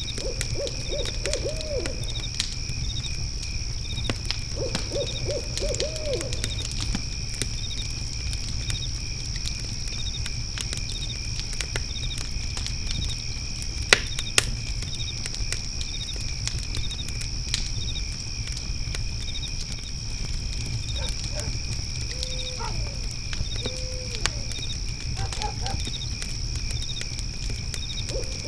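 Layered night ambience. A fire pit crackles with scattered pops, one sharp pop about halfway through, over a steady low rumble. Crickets chirr steadily, with a second insect pulsing about once a second. An owl hoots in short runs of quick notes near the start, a few seconds in and again at the very end, with two longer single hoots later on.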